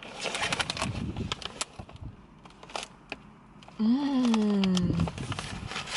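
Plastic snack wrapper crinkling and crackling as a package is opened. About four seconds in, a person makes a drawn-out 'ooh' that falls in pitch, and then the crinkling starts again.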